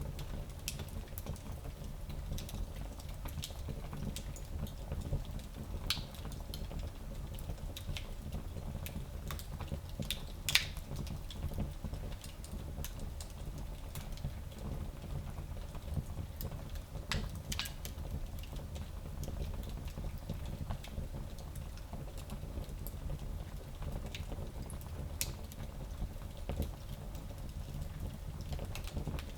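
Wood fire crackling in a fireplace: irregular scattered snaps and pops over a steady low rumble, with one louder pop about ten seconds in.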